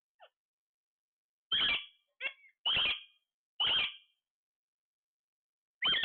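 Parrot calling: a run of short, loud squawks, four close together in the middle and another at the very end.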